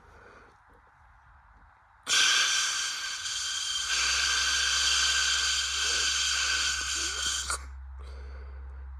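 Bridgestone Altus Newing washing machine: a loud hiss of water rushing into the machine starts suddenly about two seconds in and cuts off abruptly about five seconds later. A steady low machine hum comes in partway through and carries on.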